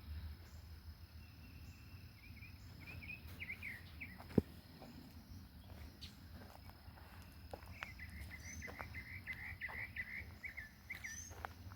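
A songbird chirping in two quick runs of short notes, over a low rumble and a faint steady high tone, with a sharp click about four seconds in.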